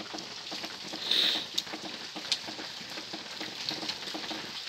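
Heavy rain pattering steadily, with scattered sharp ticks and a brief louder hiss about a second in.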